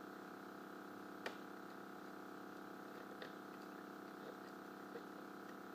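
A steady hum with three faint clicks, about one, three and five seconds in.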